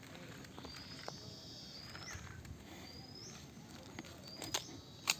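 A bird calling: a short, high, rising note repeated about once a second. A few sharp clicks come in near the end.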